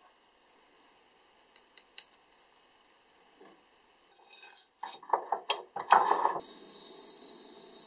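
A few faint pencil ticks on paper, then, a little past halfway, a quick run of metal clinks and knocks as a small rusty axe head is set between steel blocks in a bench vise. A steady hiss follows.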